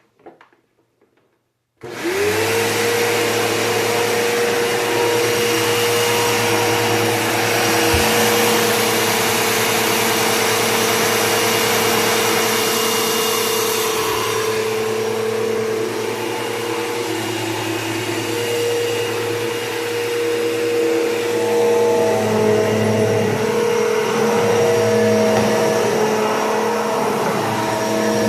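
Bissell PowerForce Bagless Turbo 6596 upright vacuum cleaner switched on about two seconds in, its motor whining up to speed and then running steadily. A few faint clicks come before it starts, and the hiss thins about halfway through.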